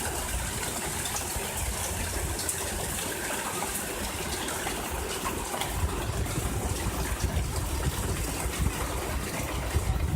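Steady rain falling, a dense even hiss with small patters of drops, over a low uneven rumble.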